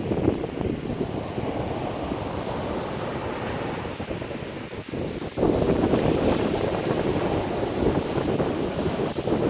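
Strong wind buffeting the microphone over heavy surf breaking on the beach, a dense rushing noise that gets louder a little past halfway.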